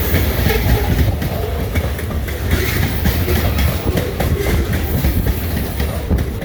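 Grain train's covered hopper cars rolling over jointed rail: wheels clicking at the rail joints over a steady heavy rumble.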